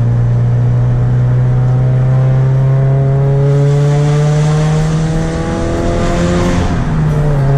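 Scion FR-S's 2.0-litre flat-four engine droning through a muffler-delete exhaust, heard from inside the cabin while the car drives. The pitch climbs slowly, then the note dips and eases briefly near the end before picking up again.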